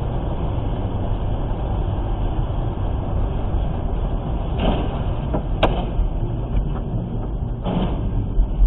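Steady car engine and road noise, a continuous low rumble, with a few short sharp knocks around five seconds in and again near the end.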